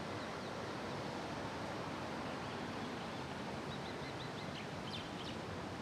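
Steady outdoor background noise, with a quick run of faint bird chirps about four seconds in and a couple more near the end.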